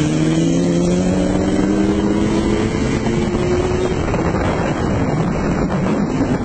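Yamaha XJ6 motorcycle's inline-four engine pulling hard in gear at highway speed, its drone rising slowly in pitch for about four seconds, then sinking under heavy wind rush on the microphone.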